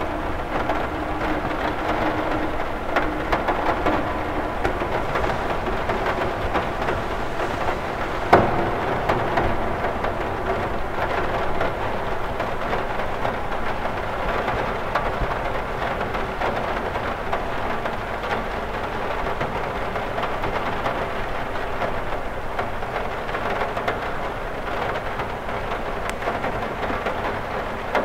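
Steady rain falling on a cathedral window, an even hiss of drops, with one sharp tap about eight seconds in.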